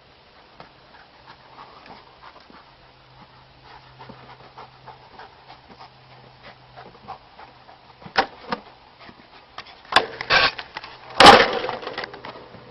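A dog panting with quick, faint breaths. Sharp knocks come about eight and ten seconds in, then a loud clatter about eleven seconds in.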